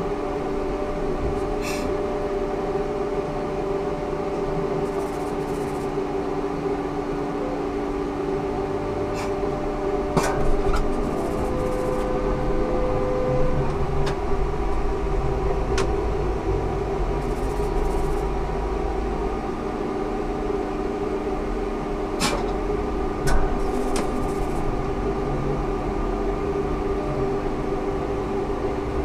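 Ikarus 280T trolleybus heard from inside, running in service: a steady electric hum from its electrical equipment over the rumble of the bus on the road, with a few sharp clicks and knocks. The rumble grows heavier for several seconds in the middle.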